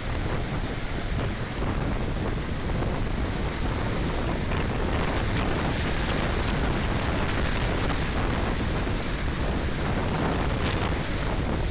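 Hurricane wind blowing hard across the microphone, a steady heavy noise with deep buffeting, with storm water and surf mixed in.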